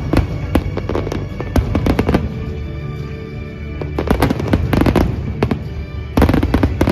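Fireworks going off: many sharp bangs and crackles at irregular intervals, coming thickest in bunches about four seconds in and again near the end, over loud music.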